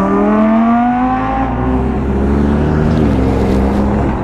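Ford Mustang GT's stock 5.0-litre V8 accelerating. Its note climbs for about a second and a half, then holds and drops back about three seconds in.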